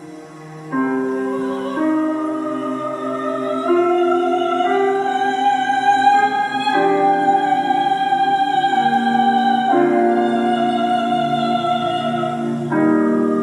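Operatic soprano voice holding a long, slowly rising line without clear words over sustained accompaniment chords that change every second or two. The music gets louder about a second in.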